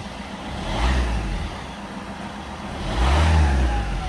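Fiat Linea's 1.3 Multijet four-cylinder turbodiesel running and revved briefly twice: once about a second in and again near the end, each rev rising and falling back to idle.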